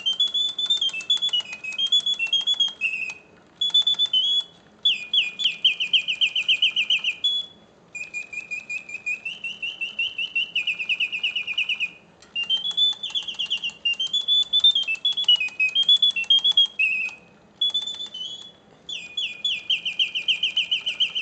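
Reuge singing bird cage from 1971, its clockwork-driven bellows and whistle playing a mechanical birdsong in continuous mode. The song comes in phrases of a few seconds each, warbling and gliding whistles alternating with fast even trills, with brief breaks between phrases. Faint ticking of the clockwork runs underneath.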